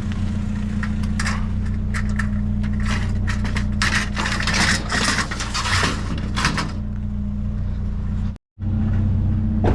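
Small pickup truck's engine idling steadily, with irregular rustling and scraping of trash being rummaged through for several seconds in the middle. The sound cuts out for a moment near the end.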